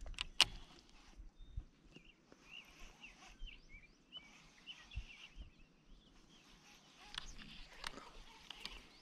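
Faint outdoor ambience with small birds chirping in short, quick, rising and falling notes. Two sharp clicks come about half a second in, and a few soft knocks follow later.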